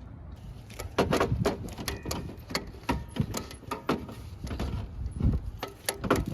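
Hand tools clinking and knocking against metal engine parts while working on the car, a quick, irregular run of sharp clicks and taps starting about a second in, some with a short metallic ring.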